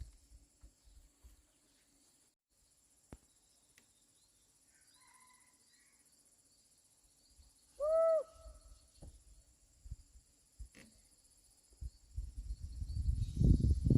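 A steady chorus of insects, with a single short hooting call about 8 seconds in that rises and falls in pitch. Low rumbling noise builds over the last two seconds.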